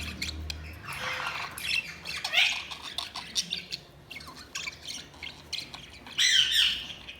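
Budgerigars chattering: quick chirps mixed with harsh, scratchy squawks. The loudest burst of squawking comes about six seconds in.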